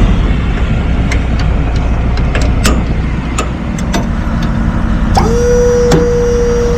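Garbage truck running with a steady low rumble and many sharp clicks and rattles. About five seconds in, a steady whine starts with a short downward slide in pitch and holds.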